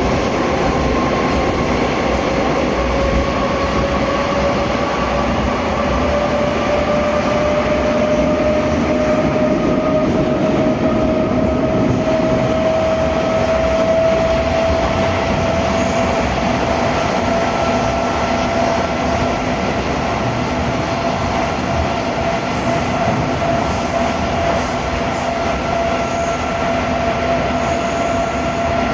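Moscow Metro 81-740/741 "Rusich" train running between stations, a steady loud rumble of wheels and running gear. Over it a whine rises slowly in pitch through the first half, then holds steady as the train reaches running speed.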